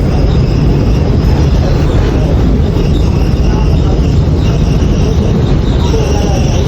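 Commuter train running, a loud steady rumble of the cars on the rails, with faint high wheel squeals near the end.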